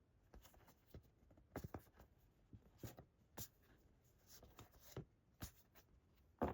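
Faint, irregular soft ticks and rustles of smooth card art cards being handled and laid down, about a dozen light taps spread across a near-silent room.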